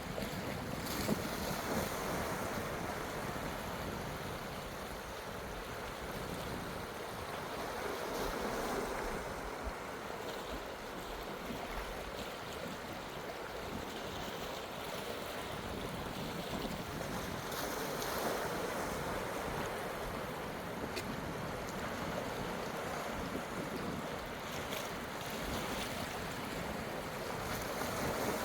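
Sea waves washing onto a rocky coast, a steady rush of surf that swells several times as waves come in.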